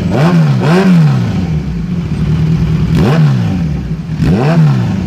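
Kawasaki Z1000R inline-four motorcycle engine idling through a newly changed muffler, blipped on the throttle four times: two quick revs close together, then two more after a few seconds of idle, each rising and dropping straight back.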